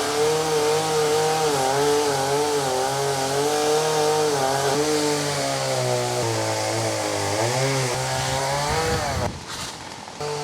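A small petrol engine running, its pitch wavering up and down. It rises briefly and then falls away about nine seconds in, and comes back faintly at the end.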